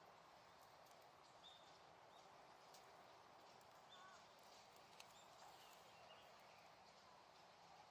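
Small wood bonfire burning faintly: a low steady hiss of flames with scattered small crackles and pops from the burning wood.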